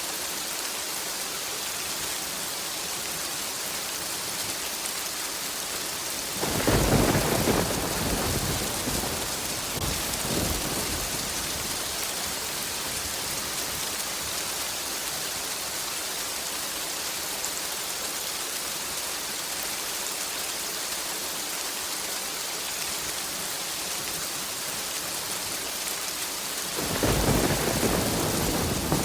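Steady rain hissing, with rolls of thunder: one about a quarter of the way in that rumbles and fades over several seconds, and another starting near the end.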